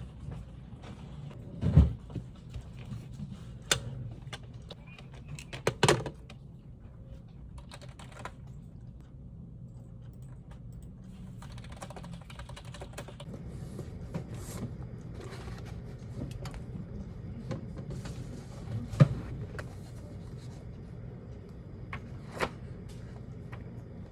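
Typing on a computer keyboard: scattered keystrokes with a few louder knocks, over a steady low hum.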